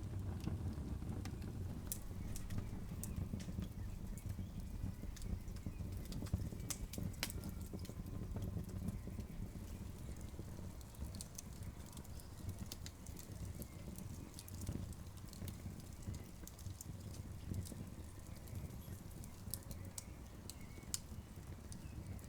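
Wood campfire burning: irregular sharp crackles and pops over a low, steady rumble, with a few louder pops about two and seven seconds in.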